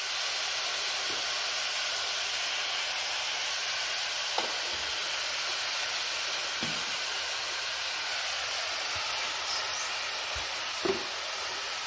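Ghevda bean pods frying in oil in a steel pan over a wood fire: a steady sizzle. A few light knocks come through, the last as a spoon stirs the pan near the end.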